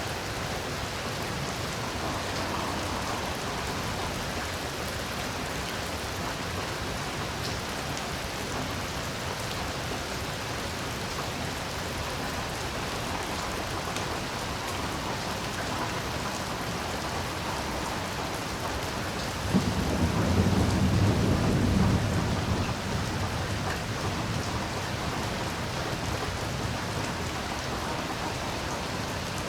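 Heavy rain falling steadily. About two-thirds of the way through, a low rumble of thunder starts suddenly, holds for a few seconds and then fades under the rain.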